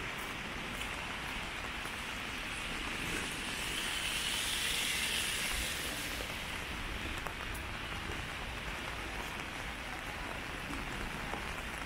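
Rain falling on a city street: a steady hiss that swells a little around the middle, with a few faint drop ticks.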